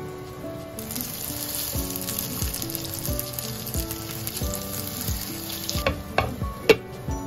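Tofu hamburger patties sizzling as they fry in oil in a frying pan, starting about a second in and stopping sharply near the end. A few sharp clinks follow as a glass lid is set on the pan.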